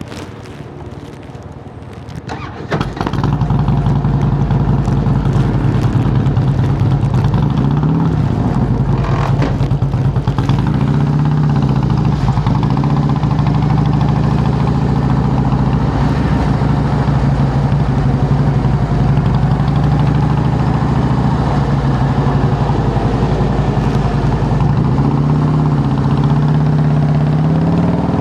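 2008 Harley-Davidson Softail Heritage Classic's air-cooled Twin Cam 96 V-twin fires up about two and a half seconds in, through Samson fishtail true dual exhaust pipes. It then settles into a loud, steady idle with a few slight rises in engine speed.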